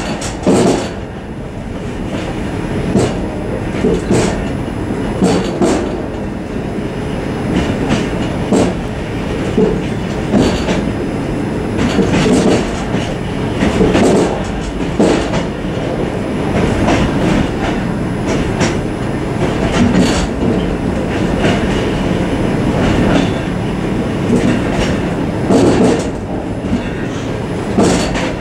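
Suburban train running, heard from inside its vestibule: a steady rumble of wheels on rail, with sharp clacks about every second or two as the wheels cross rail joints and switch points.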